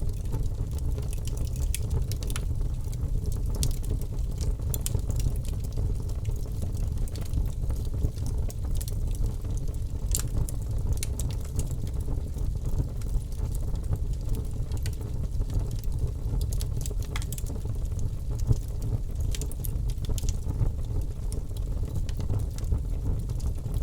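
Fireplace fire burning: a steady low rumble with irregular sharp crackles and pops.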